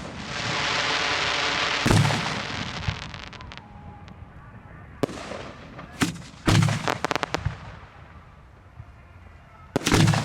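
Fireworks going off close by: a steady hiss for about two seconds, then a boom with a spatter of crackles after it. Around the middle come sharp reports and another boom followed by a rapid rattle of crackles, and a further boom comes near the end.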